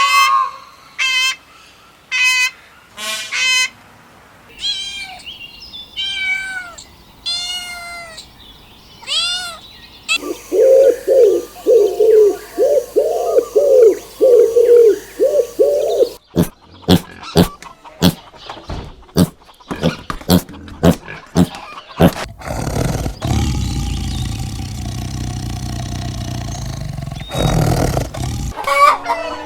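A run of different animal and bird calls one after another: pitched, curving calls first, then a fast series of short low calls, then a string of sharp clicks and a low rumbling noise near the end.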